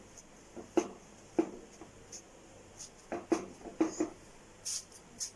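A cotton cloth pressing and dabbing a thin methi khakhra against a hot griddle: a handful of soft, short taps and rubbing strokes.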